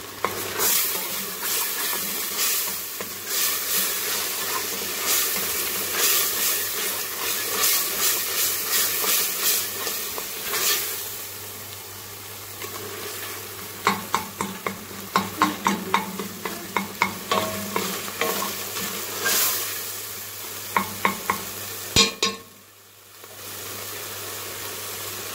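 Chopped onion, garlic and tomato sizzling in hot oil in a stainless steel pot as they are stirred and fried until the onions brown. In the second half a utensil scrapes and knocks against the pot in quick runs of clicks, and the sizzle briefly drops away near the end.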